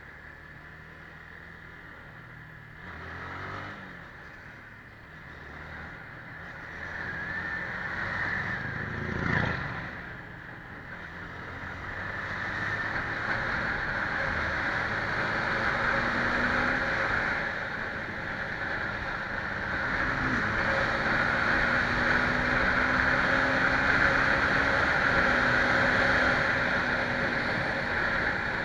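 Scania 111 truck's diesel engine pulling and climbing through the gears, its pitch rising in steps with short breaks at the shifts. Road and wind noise build as speed picks up, with a single knock about nine seconds in.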